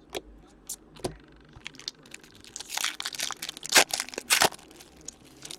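Trading card pack wrapper being torn open and crinkled, a string of sharp crackles that is busiest and loudest from about two and a half to four and a half seconds in.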